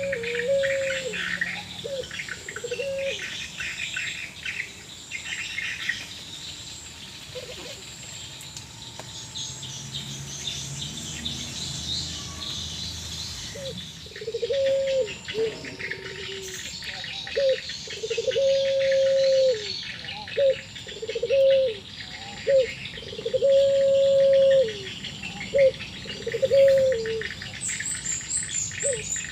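Puter pelung doves cooing back and forth: short pips and long, level held coos, only a few in the first half and coming one after another from about halfway. Smaller birds chirp and insects trill behind them. The keeper wonders whether this unusual calling is distress or a sign of the doves being in heat.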